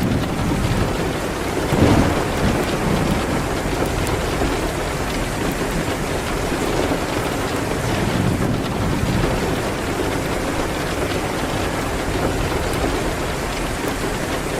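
Steady heavy rain, an even wash of noise, with a brief louder low thump about two seconds in.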